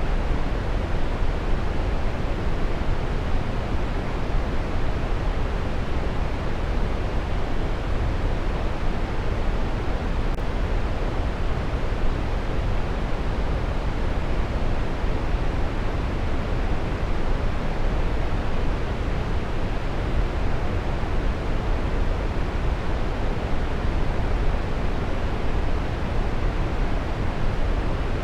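Waterfall: a steady rush of falling water, heaviest in its low rumble, unchanging throughout.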